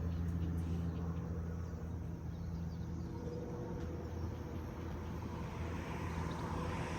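Steady low drone of a vehicle in motion, with an even hum and no change in pitch.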